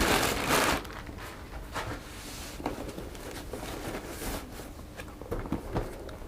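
Parcel packaging being handled and unwrapped: a loud burst of crinkling and rustling in the first second, then quieter rustling with scattered light taps and clicks.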